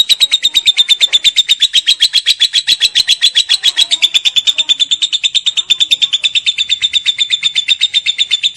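Lovebird giving its long 'ngekek' chatter: an unbroken run of rapid, sharp, high-pitched chirps, about ten a second, at an even pace.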